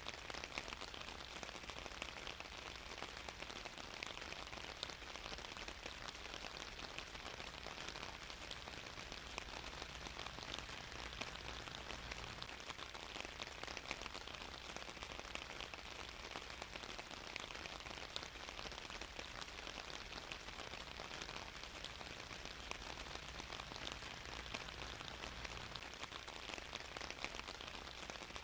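Steady rain falling, a dense even patter of drops on a surface with no change in intensity.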